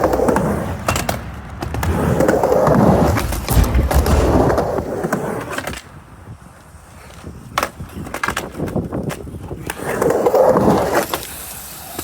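Skateboard wheels rolling back and forth across a mini ramp, swelling and fading with each pass, with sharp clacks of the board and trucks hitting the ramp. A quieter stretch with scattered clacks comes midway.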